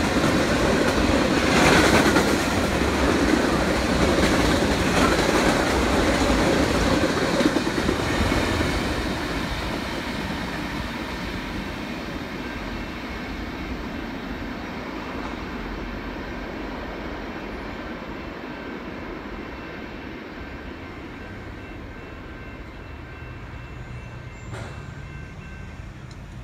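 Freight train cars rolling past on the track, loud for the first several seconds, then fading steadily as the end of the train moves away.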